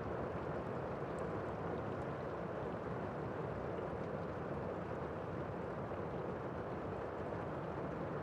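Steady rain falling: an even, unbroken rushing hiss with a few faint drop ticks.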